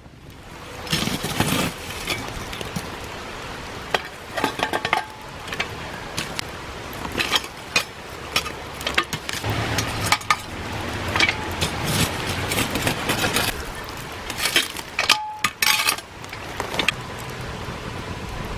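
Clinking and knocking of cooking gear being handled, a run of sharp clicks and clinks in irregular clusters.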